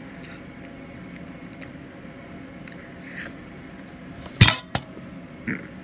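A person chewing baked chicken, with faint small mouth clicks over a steady low room hum. About four and a half seconds in there is one loud, sudden noise, followed by a short sharp one and a smaller one a second later.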